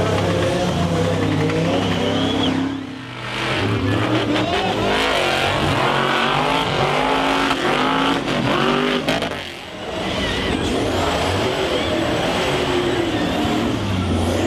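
Monster truck engine revving hard, its pitch rising and falling again and again, with two brief throttle lifts about three seconds and about nine and a half seconds in.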